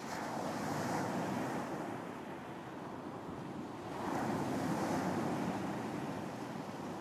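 Surf washing onto a beach, rising and falling, with waves breaking at the start and again about four seconds in.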